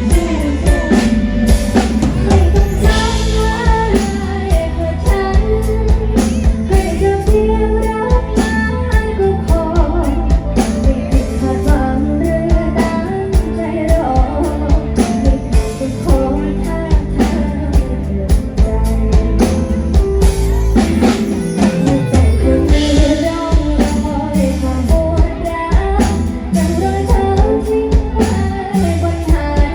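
A singer performing a Thai pop song over band backing, with a steady drum-kit beat and guitar.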